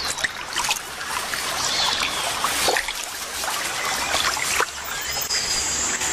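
Water splashing and sloshing in irregular bursts as a jaguar swims and wades through a muddy river, with a few faint bird chirps.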